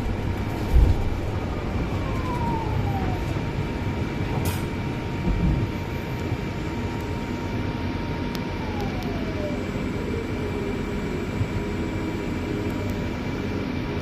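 Scania C250EB bus heard from inside the cabin while driving: steady engine and road rumble under a thin drivetrain whine that falls in pitch twice, with a couple of dull thumps.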